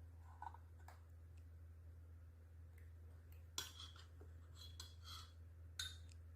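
Near silence: a steady low hum with a few faint, short clicks and taps scattered through it.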